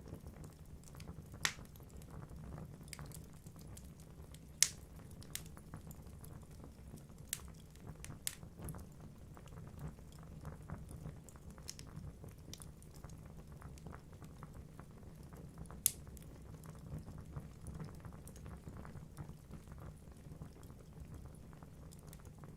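Wood logs burning in a fireplace: a steady low rumble of flame with constant small crackles and a handful of sharp, loud pops, the loudest about four and a half seconds in and again near sixteen seconds.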